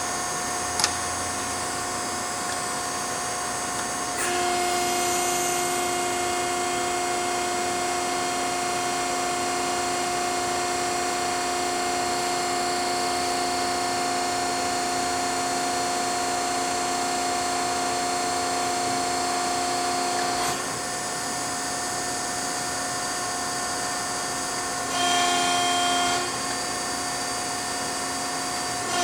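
Baykal CNC hydraulic press brake's pump and motor running with a steady whine. It steps up in loudness about four seconds in, drops back about twenty seconds in, and rises again briefly near the end.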